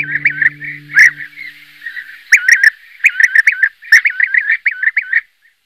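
A songbird singing in runs of quick, sweeping chirps with short gaps between runs. A held guitar note fades out in the first second.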